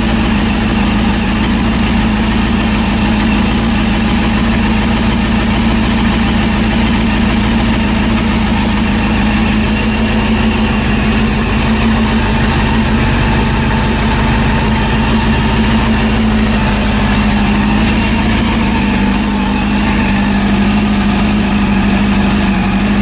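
Freshly rebuilt Honda CB400 four-cylinder engine idling steadily, which the owner judges sounds good, with no bad engine noise.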